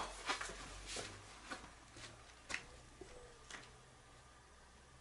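A string of light knocks and taps, roughly two a second, that die away after about three and a half seconds, leaving only faint background.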